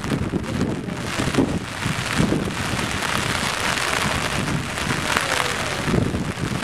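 Steady rain falling and spattering on a rooftop, with many separate drops hitting close by.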